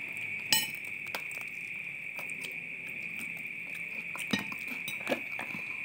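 A person chewing a small fried bird eaten by hand, with a few sharp little clicks, over a steady high-pitched whine.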